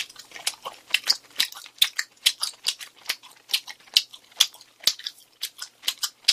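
Close-miked chewing of crispy fried chicken (Goobne Honey Curry Basasak): a fast, irregular run of crisp crunches, about three or four a second.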